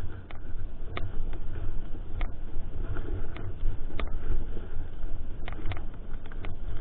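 Mountain bike being ridden over a dirt trail: a steady low rumble with irregular sharp clicks and knocks from the bike rattling over the ground.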